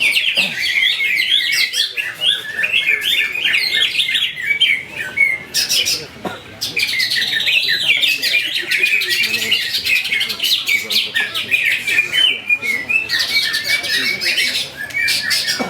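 Cucak ijo (greater green leafbird) song: a dense run of fast, varied chirping notes, easing briefly about six seconds in and again at about twelve seconds.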